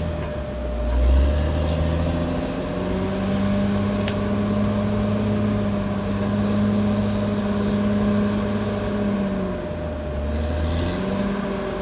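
Caterpillar D6R XL crawler bulldozer's diesel engine running under work, its pitch low at first, then rising and holding steady, dipping again about ten seconds in before climbing back.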